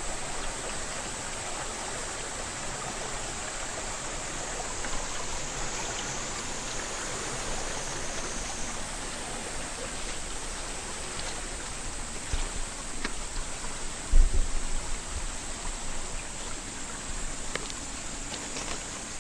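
Headwater mountain stream flowing with a steady rush of water. A few low thumps come about two-thirds of the way through.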